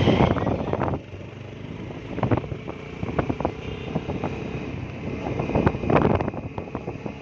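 Wind buffeting the microphone on a moving motorbike, in gusts, over the low running of the engine.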